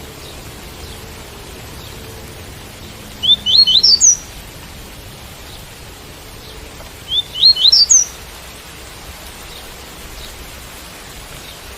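Double-collared seedeater (coleiro) singing the tuí-tuí song: two short phrases of quick rising notes about four seconds apart, over a steady hiss of rain.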